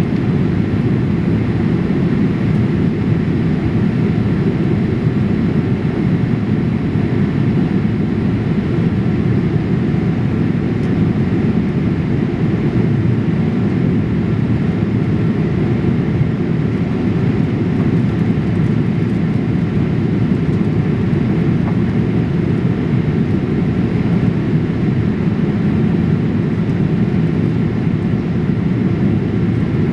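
Steady cabin noise inside a Boeing 787-8 airliner in flight, a constant low rushing drone of airflow and engines with no changes.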